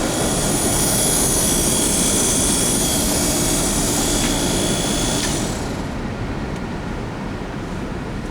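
Air pump on a 1947 Kearney and Trecker milling machine running, giving a loud steady hiss of air with a faint whine, switched off about five and a half seconds in. A low rumble from a passing train runs underneath.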